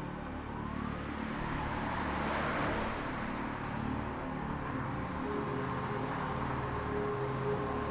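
Car traffic on a road, with a steady engine rumble and one car passing by about two and a half seconds in.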